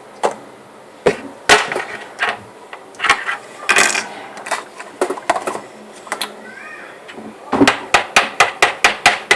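Kitchen utensils and containers knocking and clattering as they are handled and cleared away, ending in a quick run of sharp taps, about five a second.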